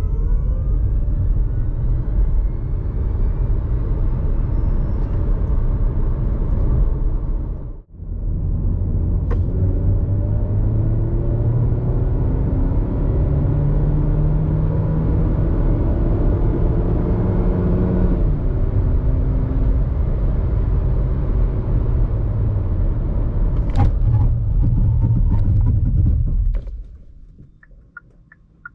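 Kia Niro plug-in hybrid's 1.6-litre petrol four-cylinder accelerating hard, its pitch climbing and dropping back at each shift of the six-speed dual-clutch gearbox, with a brief break about eight seconds in. It runs steadily for several seconds and then fades out near the end.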